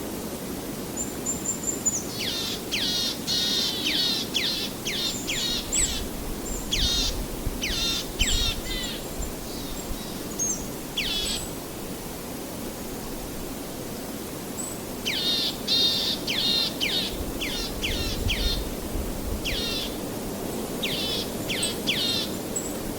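Songbirds singing: two bouts of quick, high, downward-sweeping notes, with a pause of a few seconds between them, over a steady rushing background noise.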